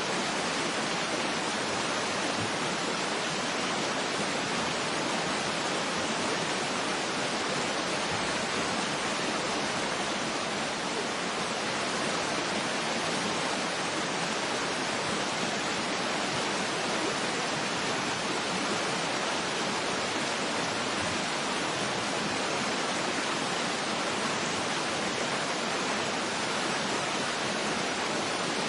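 Waterfall running: a steady, unbroken rush of falling water, an even hiss with little low rumble and no single splashes standing out.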